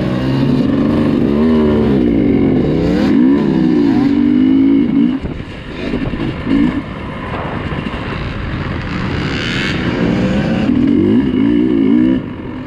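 Dirt bike engine being ridden off-road, its pitch rising and falling with the throttle. It eases off briefly about five seconds in, then builds again.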